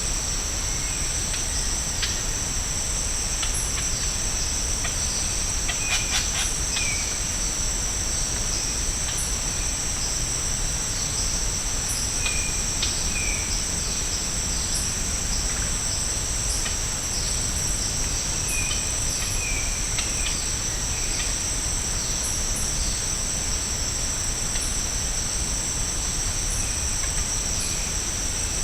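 Steady, high-pitched chorus of rainforest insects, two unbroken shrill tones, with short bird chirps and calls dotted throughout.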